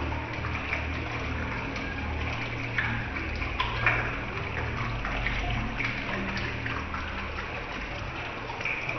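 Small paludarium waterfall splashing steadily over a low hum, with a few faint clicks of dripping water.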